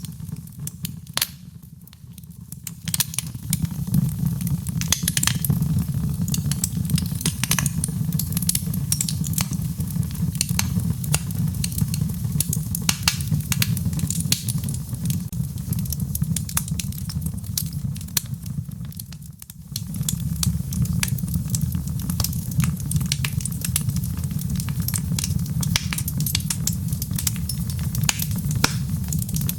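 Wood fire burning in a fireplace: dense, irregular crackles and pops over a steady low rumble of the flames. The sound briefly drops away twice, about two seconds in and again around the middle.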